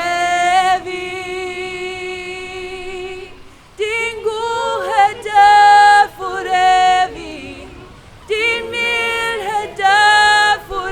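A Norwegian worship song sung with no instruments heard. Long held notes come in three phrases, with short breaks between them.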